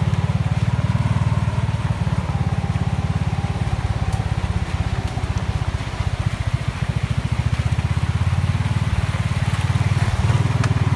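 A vehicle's engine running steadily, a low, even throb heard from on board, easing slightly for a moment around the middle.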